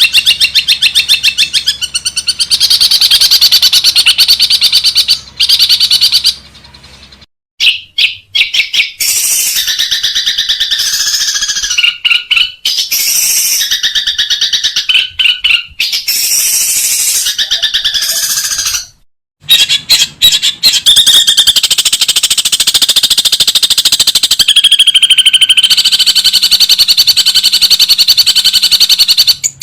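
Long-tailed shrike (cendet) song: loud, fast runs of rapidly repeated high, scratchy notes. It is a spliced recording that cuts out abruptly twice, briefly going silent about a third of the way in and again around two-thirds through.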